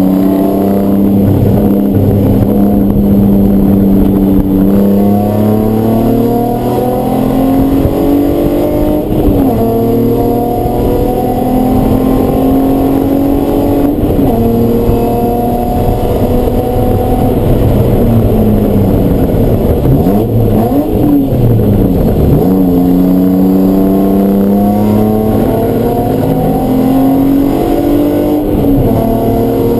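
Race car engine under hard acceleration, its pitch climbing and then dropping back at each upshift, several times over. About two thirds of the way through it slows, with quick throttle blips on the downshifts, then pulls up through the gears again.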